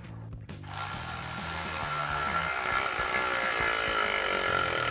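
Power tool spinning a 13 mm socket to tighten the clamp on an exhaust tip: a steady whir with a thin high tone that starts under a second in and runs for about four seconds.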